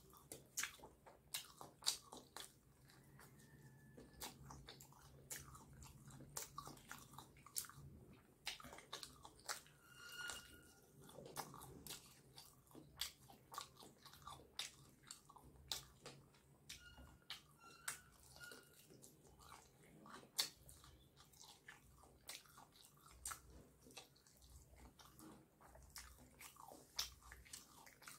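A person biting and chewing crispy fried chicken, with many sharp crunches and mouth clicks one after another.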